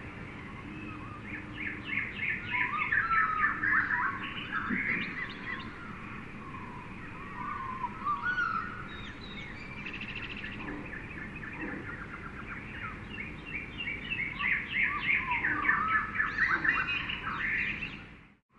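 Several birds chirping and trilling in quick overlapping runs over a steady jungle background hiss, busiest in two stretches. The sound cuts out abruptly for a moment near the end.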